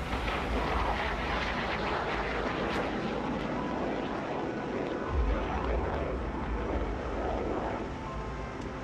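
F-16 fighter jet flying a display pass, its engine a dense rushing roar with deep rumble that swells at the start and again about five seconds in.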